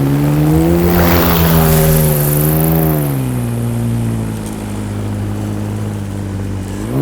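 Paramotor engine and propeller running in flight, steady at first, then throttled back about three seconds in so the pitch and level drop. The engine starts to rev up again right at the end.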